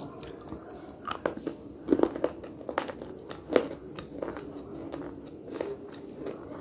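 Close-up biting and crunching of hard, brittle earthy pieces, with chewing in between: irregular sharp crunches, the loudest a cluster about two seconds in and one more at about three and a half seconds.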